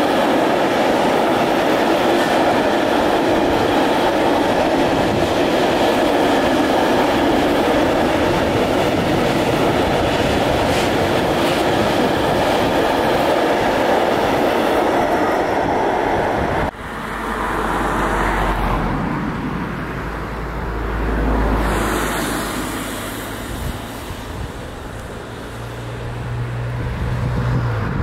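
Container freight train wagons rolling past on the track below, a steady loud rolling noise. About two-thirds of the way through it cuts off abruptly, leaving a low, uneven rumble of wind on the microphone.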